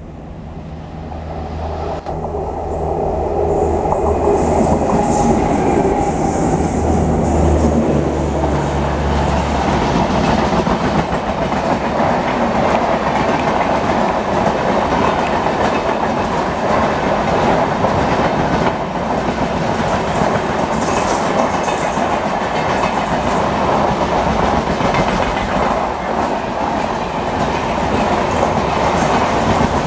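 Electric locomotive-hauled passenger train passing close by. A steady low hum from the approaching locomotive grows louder over the first few seconds. From about nine seconds in, the coaches rumble and clatter past on the rails without letting up.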